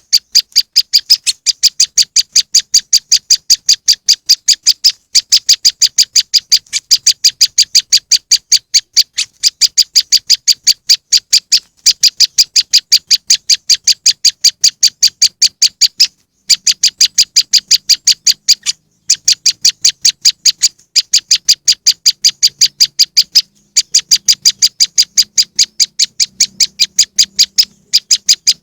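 Recorded song of a prenjak lumut (moss wren) played as a bird lure: a fast, even run of sharp high chirps, about eight a second, repeated in stretches of a few seconds with brief breaks between.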